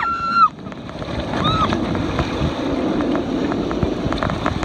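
Rushing water and wind noise on the microphone during a ride down a water slide. A held cry cuts off about half a second in, and a short call follows about a second and a half in.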